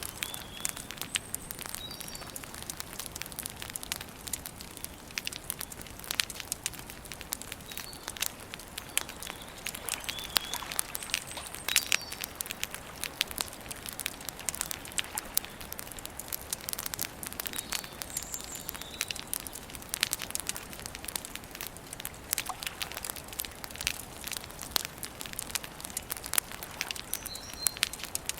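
Wood campfire crackling steadily with frequent sharp pops, and a small bird chirping briefly every few seconds.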